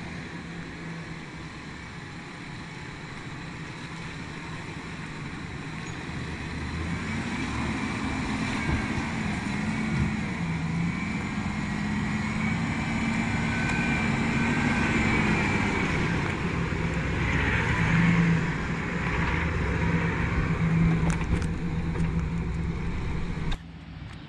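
Full-size Chevrolet pickup truck's engine running as the truck drives, growing louder and rising and falling in pitch through the middle as the throttle is worked. The sound drops off sharply near the end.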